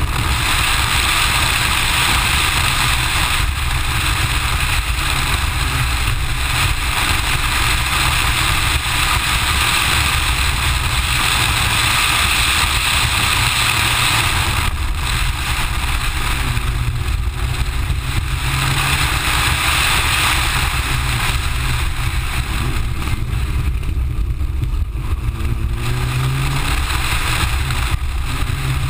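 Mitsubishi Lancer Evo IX rally car driven at speed, heard from a camera on the car's outside: its turbocharged four-cylinder engine running under load, its revs rising and falling, beneath a heavy rumble of wind on the microphone.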